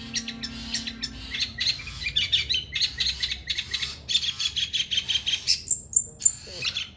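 Long-tailed shrike (pentet) singing a fast, continuous run of chirping notes, with a few higher, piercing notes near the end. A steady low hum sounds underneath for the first couple of seconds.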